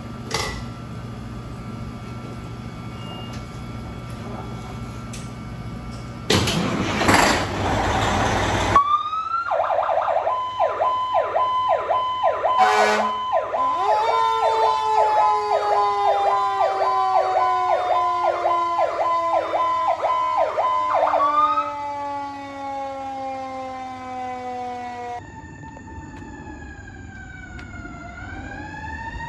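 Fire truck sirens on an emergency response: a steady engine rumble first, then a loud burst of noise, then a fast electronic yelp siren about nine seconds in, layered with a slowly falling siren tone and a brief blast. Near the end comes a slower wail siren, rising and falling.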